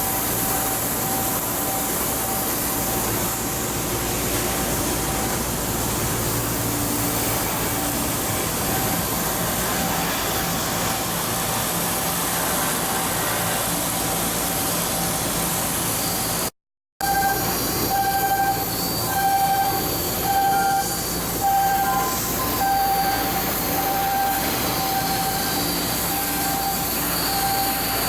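Steady machinery noise with a repeating beeping warning tone. The beeps grow louder and add a higher tone after an abrupt cut about two-thirds of the way through.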